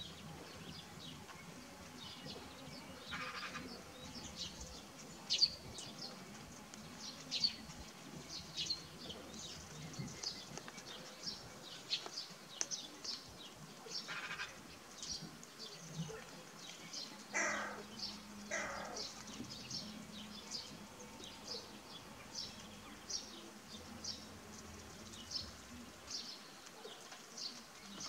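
Many short, high chirps from small birds scattered irregularly throughout, with a few brief, harsh rattling calls from another bird, the loudest around the middle.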